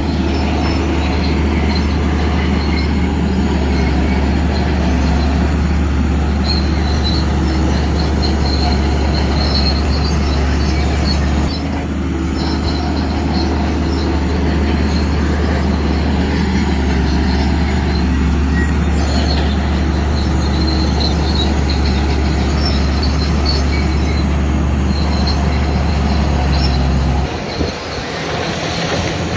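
Shantui crawler bulldozer working: its diesel engine runs steadily, with the steel tracks squealing as it moves. The engine note changes near the end.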